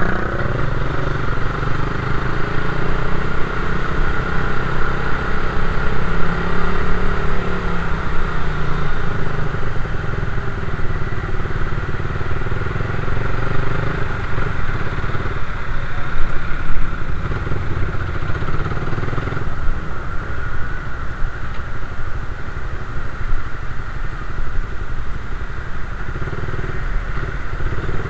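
Suzuki Raider 150 underbone motorcycle's single-cylinder four-stroke engine running steadily under way in slow traffic, heard close up from the handlebars, with a few changes in engine pitch near the start.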